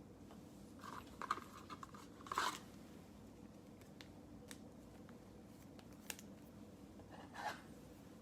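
Faint handling of trading cards: a few soft rustles and brushing sounds of cards sliding against each other as a stack is flipped through, with a single light click about six seconds in.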